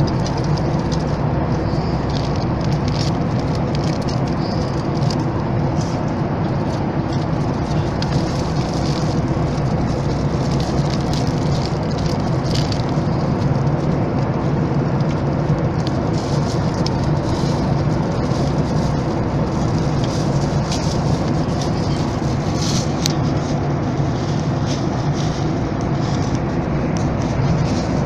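Steady cabin noise inside a Boeing 737 MAX 8: engine and airflow noise with a constant low drone and faint scattered rattles.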